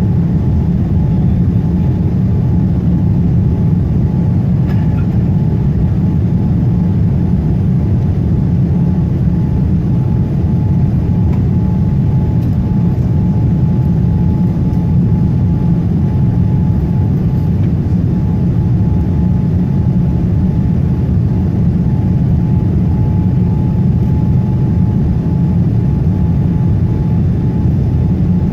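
Boeing 787 cabin noise in flight: a steady, loud low rumble of engines and airflow with a faint constant hum over it.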